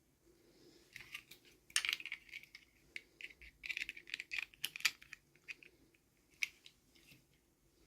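Rapid, irregular run of small sharp clicks and crinkles from hands handling plastic toy packaging, busiest in the middle and thinning out near the end.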